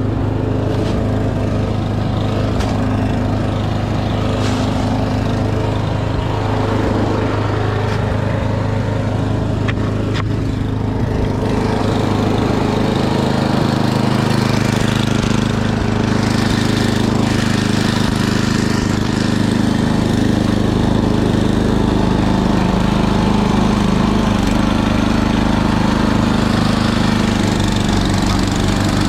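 Small gasoline engine running steadily at a constant speed, a little louder in the second half.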